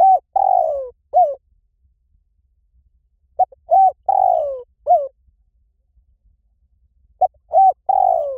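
Spotted dove cooing: a phrase of a short note, a hooked coo, a long falling coo and a short closing coo, repeated three times about every four seconds.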